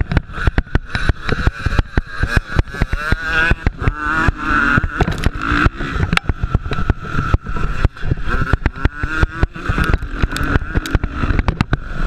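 Motocross bikes racing, their engines revving up and down in pitch, with many sharp crackles and thumps throughout.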